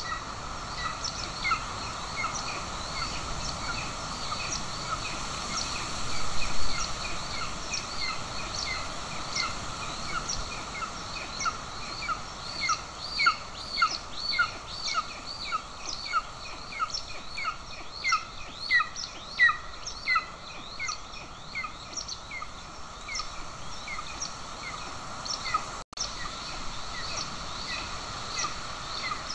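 Golden eagle chick giving a long run of short, high, repeated begging calls, about one to two a second, over steady background noise, as it is fed at the nest.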